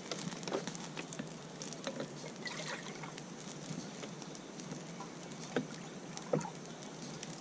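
The last dregs of water sloshing and pouring out of a 5-litre plastic water bottle, with a few faint clicks.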